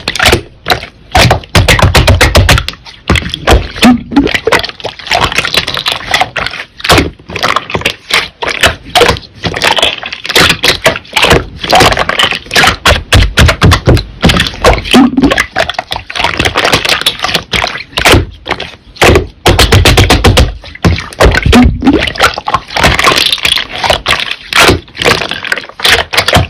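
Slime being pressed, stretched and poked by hand, giving dense, rapid crackling and popping clicks, with a few short stretches of low thudding about two seconds in and again near twenty seconds.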